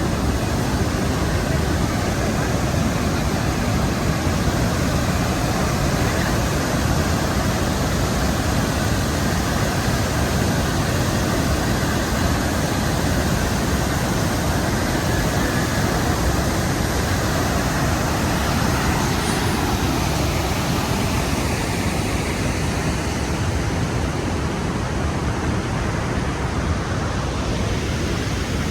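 Steady, loud rushing noise, even across low and high pitches and unbroken throughout.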